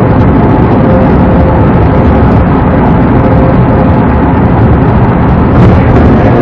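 Loud, steady road and wind rumble of a patrol car driving at highway speed, picked up by its dashcam microphone.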